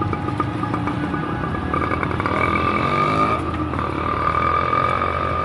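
Bicycle ride along a road: steady wind and road noise with a constant high whine, and a motor vehicle going by about two to three seconds in.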